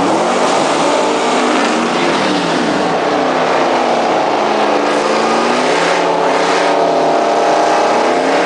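Chevrolet Camaro SS V8 at full throttle on a drag strip pass, its pitch climbing and then dropping several times as it shifts up, with a constant rush of wind noise.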